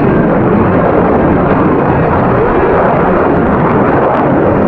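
Steady, loud jet roar from a Boeing F/A-18 Hornet's twin General Electric F404 turbofans, holding high power through a slow-speed climb.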